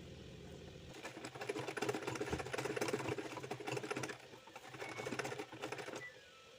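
Domestic sewing machine stitching embroidery in two spells of rapid needle strokes, the first starting about a second in and running about three seconds, the second shorter after a brief pause.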